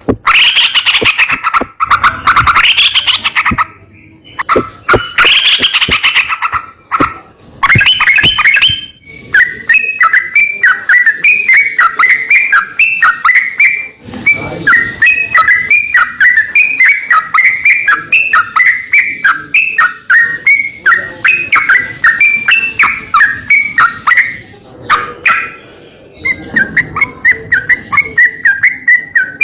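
Songbird singing non-stop in the rapid, chattering crocokan style, with dense bursts at first and then long runs of short repeated notes, several a second.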